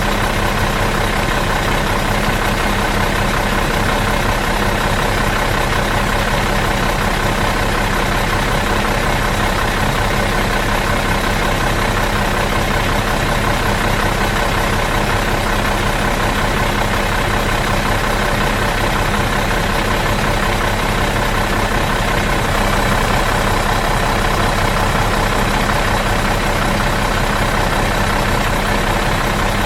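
Bus engine idling out of gear: a steady, unchanging hum.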